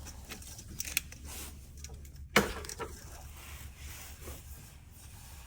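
Faint metallic clicks and knocks of an exhaust front pipe being handled, with one sharper knock about two and a half seconds in.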